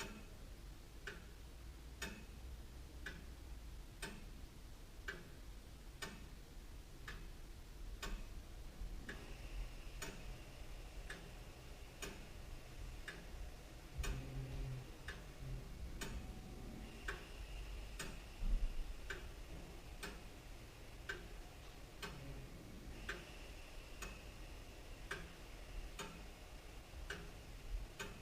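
Antique William Holliwell of Liverpool clock ticking steadily, evenly spaced ticks a little faster than one a second. A soft low thump about two-thirds of the way through.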